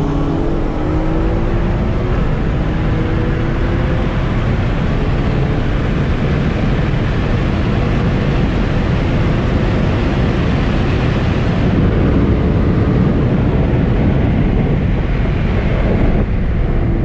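Modified Alfa Romeo Giulia Quadrifoglio's twin-turbo V6 pulling hard under acceleration, heard from inside the cabin. Its pitch climbs over the first few seconds, then it becomes a steady, loud rush of engine, wind and road noise.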